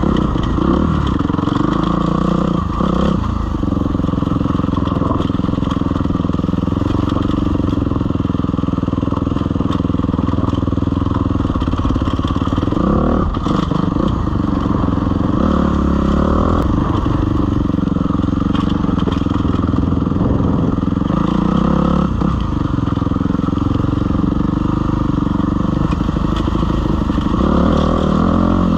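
Suzuki RM-Z250 dirt bike's four-stroke single-cylinder engine running at low revs on a steep, rocky descent, rising briefly in pitch a few times, with occasional knocks and clatter as the bike bounces over loose rocks.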